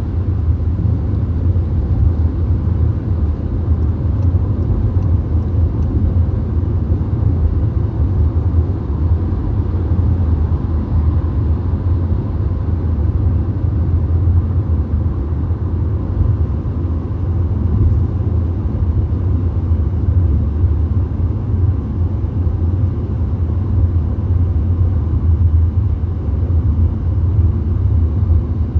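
VW Golf driving at highway speed: a steady low rumble of road and engine noise, with no changes.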